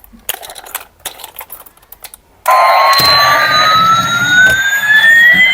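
Light clicks of a toy being handled, then, about halfway through, an electronic siren sound effect from a battery-powered RC toy starts suddenly and loudly, with slow rising and falling glides.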